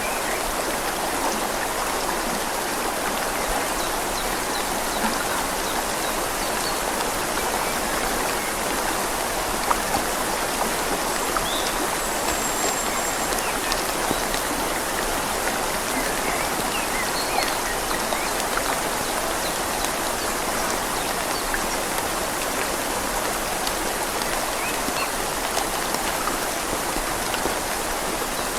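Steady rush of a flowing river with rain falling, scattered drops pattering, and a few faint short bird chirps.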